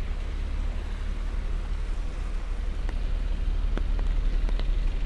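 Light rain on wet city pavement over a steady low rumble of nearby traffic, with a few sharp ticks between about three and five seconds in.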